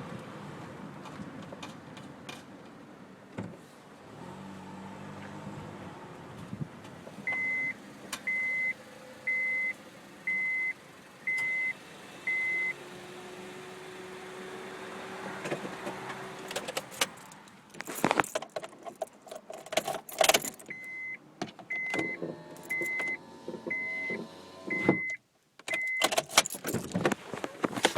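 A car's engine running steadily, then the car's warning chime beeping about once a second in two runs of six, with keys jangling and loud handling clatter between and after the chimes.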